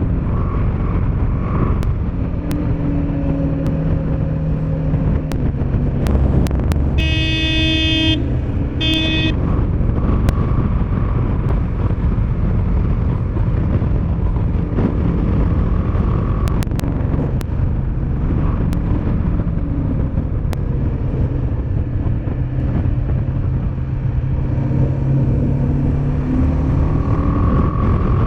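Motorcycle engine running under steady wind noise, its pitch rising and falling as the throttle changes. A vehicle horn sounds twice about seven seconds in: one honk of about a second, then a short one.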